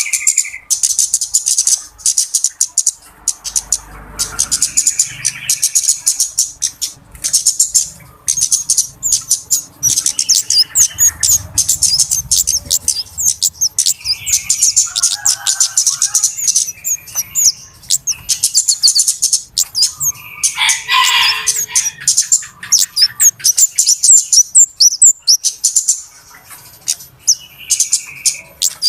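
Flowerpeckers (kemade / cabe-cabean) calling noisily: a fast, busy run of thin, very high chips with barely a pause, mixed with a few lower, buzzier notes.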